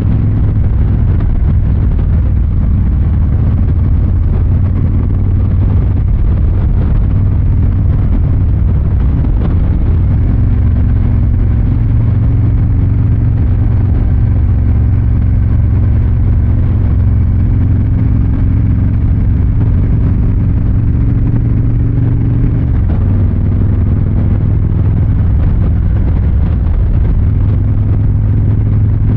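Harley-Davidson Fat Boy 114's Milwaukee-Eight 114 V-twin running through its exhaust under steady riding. Engine speed picks up a little about ten seconds in and settles back again a few seconds before the end.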